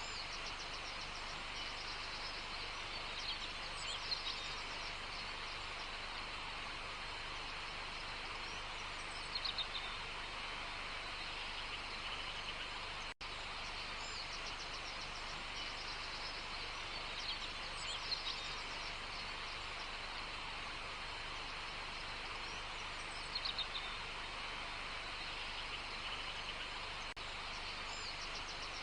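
Wild birds giving short bursts of chirps every few seconds over a steady outdoor hiss of natural ambience.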